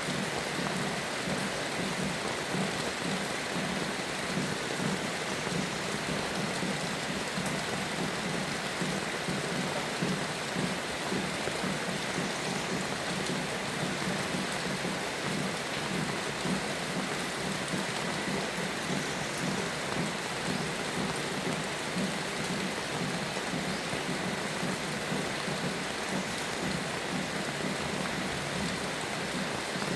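Steady, even rainfall that does not let up, with no single loud crack of thunder.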